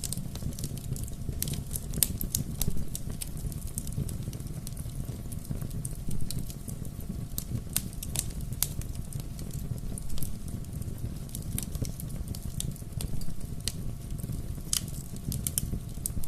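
Wood fire burning, with a steady low rumble of flame and frequent sharp, irregular crackles and pops.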